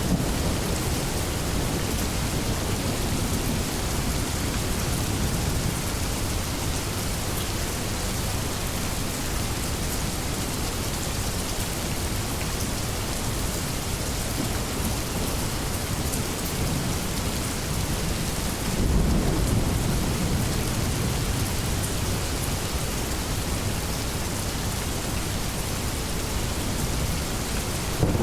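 Steady rain with low thunder rumbling; a louder rumble of thunder swells about two-thirds of the way through.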